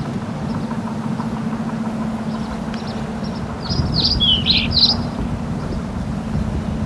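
A sailing yacht's auxiliary engine running steadily at motoring speed, with a bird giving a quick series of sharp, high calls about four seconds in.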